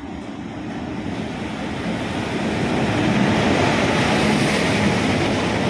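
Locomotive-hauled express train running into the platform. Its rumble grows louder over the first three seconds, then holds steady as the locomotive and first coaches pass close by.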